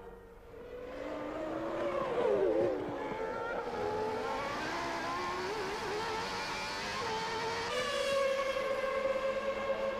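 1996 Formula One car engines at racing speed, the high engine note wavering up and down, then holding steady from about eight seconds in.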